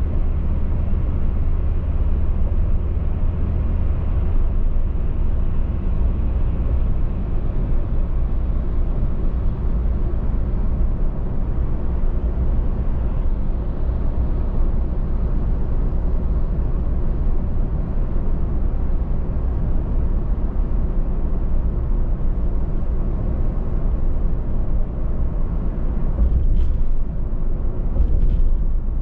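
A car driving at steady road speed with a constant low rumble of tyres and engine. Two brief knocks sound near the end.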